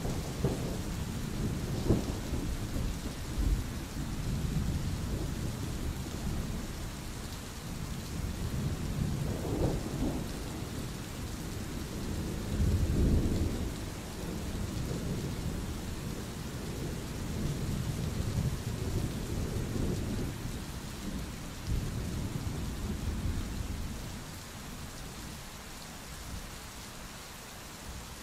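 Steady rain with rolling thunder rumbling underneath. The thunder swells about halfway through and eases off toward the end.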